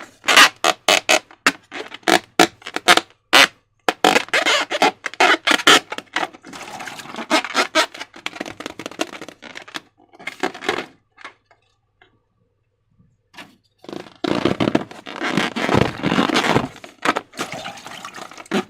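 Slime being squished and worked by hand: rapid runs of wet clicks and crackles, with a pause of about two seconds partway through.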